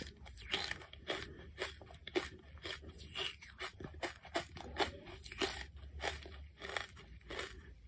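Charcoal being bitten and chewed, a continual run of crisp, irregular crunches, a few a second.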